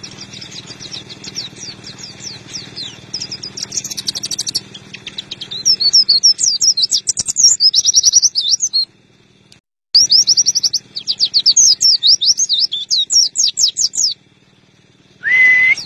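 White-eye (pleci) singing a loud, rapid twittering song of quick chirps and trills, growing louder about six seconds in and breaking off twice briefly. Near the end a short tone rises and holds, like a whistle.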